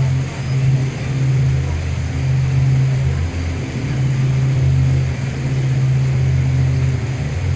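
Boat engine running steadily, a low drone with a slight waver, heard from on board over a background of water and air hiss.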